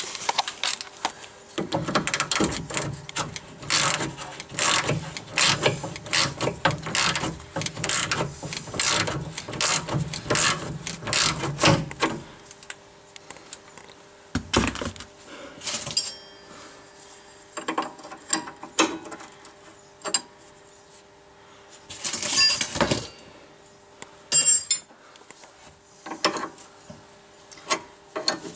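Hand tools on a sway bar link nut: rapid ratchet-like clicking for about twelve seconds, then scattered metallic clinks and knocks.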